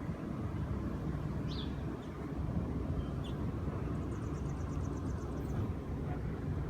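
A steady low rumble, with small birds calling faintly over it: a short falling chirp, a brief note, then a rapid high trill of about a dozen notes.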